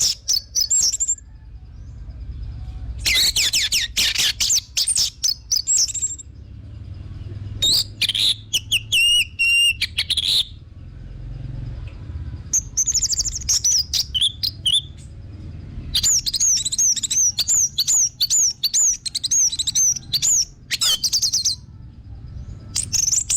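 Orange-headed thrush (anis merah) singing loud, varied phrases with short pauses between them. Near the middle comes a quick run of repeated high downslurred notes, about three a second. A low rumble runs underneath.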